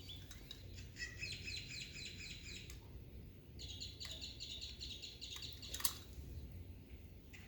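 A bird singing two runs of quick repeated chirping notes, about five a second, with a single sharp click about six seconds in.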